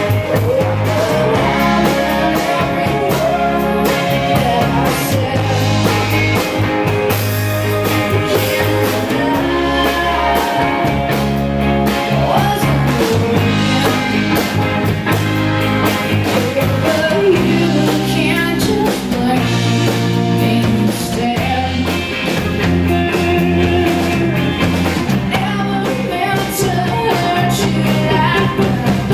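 Live rock band playing a song, with a singing voice over guitars, bass and drums at a steady loud level.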